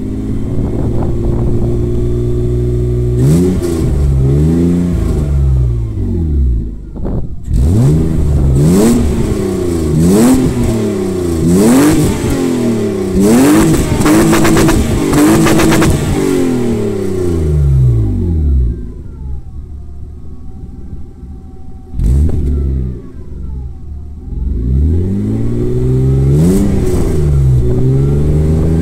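BMW E30's swapped-in M50B25 2.5-litre straight-six revved through a single wide exhaust tip: repeated quick blips that rise and fall back. It settles to a quieter idle for a few seconds about two-thirds through, then is blipped again near the end.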